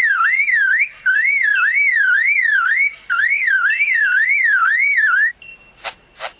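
Male superb lyrebird mimicking a car alarm: a loud, rapid warble rising and falling about two and a half times a second, in three runs with brief breaks, stopping about five seconds in. Two short sharp clicks follow near the end.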